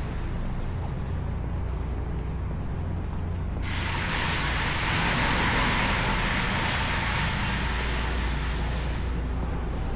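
Steady low rumble of distant road traffic. About four seconds in, a loud hiss starts suddenly and fades out near the end.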